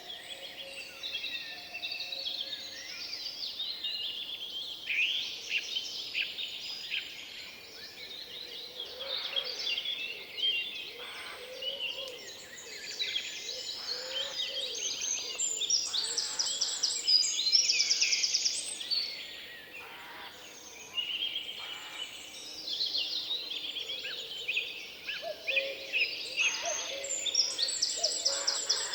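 Several songbirds singing at once in a forest, a dense chorus of overlapping high chirps, whistles and fast trills.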